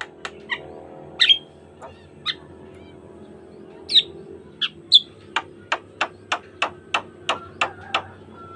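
Javan myna (jalak kebo) calling: a few loud separate whistles and sharp notes, then a quick even run of about nine sharp notes, roughly three a second, near the end.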